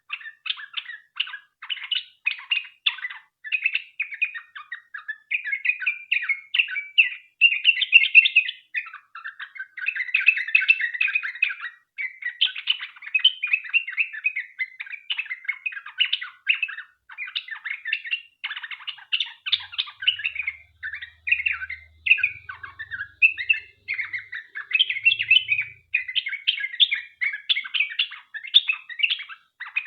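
Yellow-vented bulbul (trucukan) singing on and on in long runs of rapid notes, with only brief breaks between phrases.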